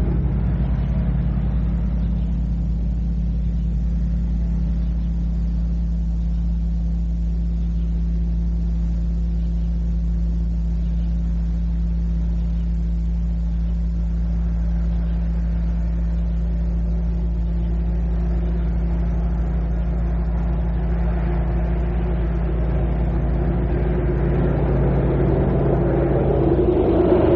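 Steady low hum and hiss of an old cassette recording of ambient noise. Over the last several seconds a motor vehicle's engine grows louder as it draws near.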